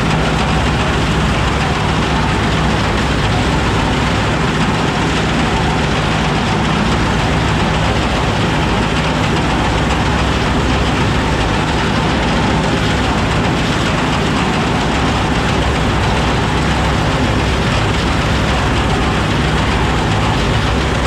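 Oliver 7300 combine running steadily under load, a continuous loud engine and machinery din with a low rumble.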